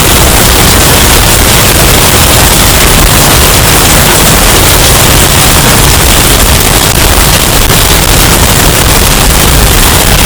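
Hurricane wind sound effect, bass-boosted and overdriven into a harsh, distorted roar. It is a steady, unbroken rush of noise, heaviest in the bass, held at the loudness ceiling.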